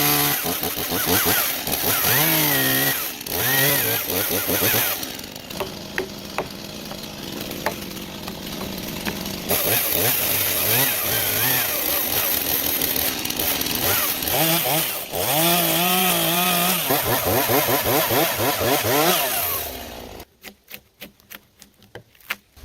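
Chainsaw running and revving up and down as it cuts into logs. The pitch rises and falls, with a rougher stretch and scattered knocks in the middle. Near the end the saw stops and a quick run of sharp knocks follows.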